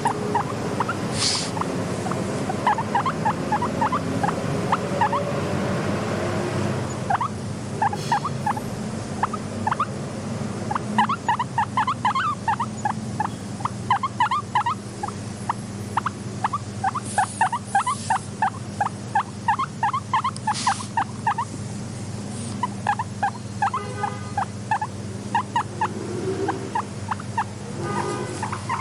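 Guinea pig vocalizing in fast runs of short squeaking notes, several a second, with brief pauses between runs. A steady low hum lies underneath.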